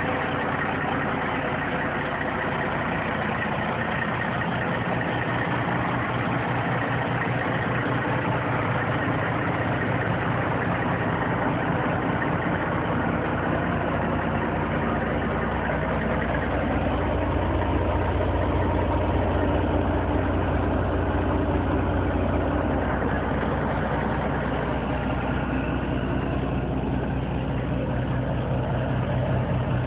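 Caterpillar C-15 diesel engine in a Peterbilt 389 truck idling steadily, with a deeper, slightly louder stretch for several seconds about halfway through.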